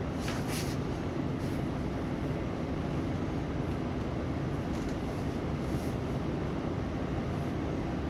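Steady low rumbling background noise, with a few faint brief hisses.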